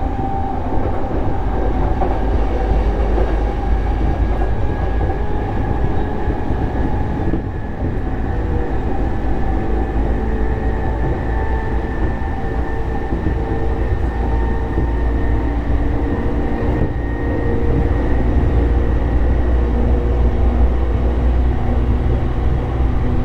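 E233 series electric commuter train running between stations, heard from inside the car: a steady rumble of wheels on rail with a faint whine from the traction motors.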